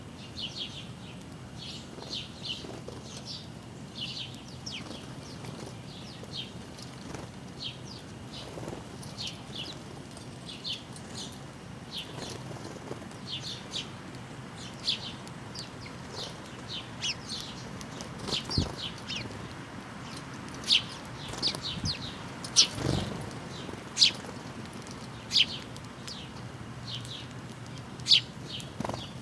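Small backyard songbirds chirping: many short high chirps, scattered at first and coming more often and louder in the second half, with two brief low flutters, one about two-thirds of the way through and another a few seconds later.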